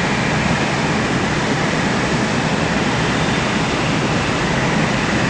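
Steady rushing noise of strong wind, even and unbroken.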